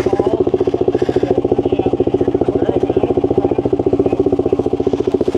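Motorcycle engine idling steadily close by, a fast, even pulsing that holds one pitch throughout.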